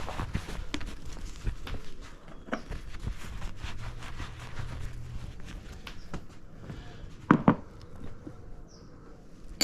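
Rustling and scattered light clicks of parts and a rag being handled at a workbench, with two sharp knocks close together about seven seconds in.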